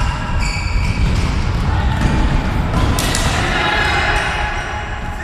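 A football being kicked and bouncing on a hard court during a match, with a sharp ball strike about three seconds in, and players' voices calling in the background.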